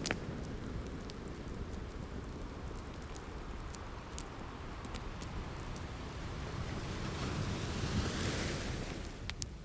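Ocean waves with a steady low rumble, one wave surging up and peaking about eight seconds in, mixed with the sharp scattered pops of a crackling wood fire.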